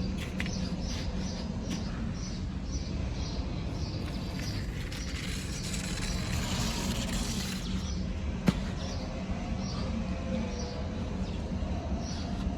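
Small electric motors and plastic gears of a radio-controlled toy construction vehicle running steadily, with a regular high chirping about three times a second and one sharp click about two-thirds of the way through.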